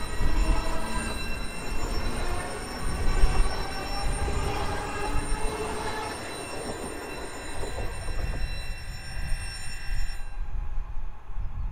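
SJ X40 double-deck electric multiple unit moving through the station: a low rumble of wheels on rail with several steady high-pitched tones that cut off abruptly about ten seconds in.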